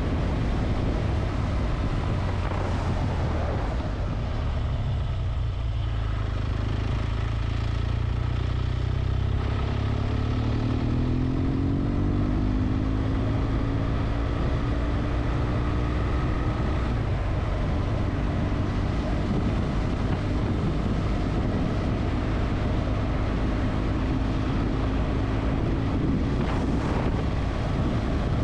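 Motorcycle engine running while riding, under steady wind and road rumble on the microphone; the engine note rises about ten seconds in and then holds steady.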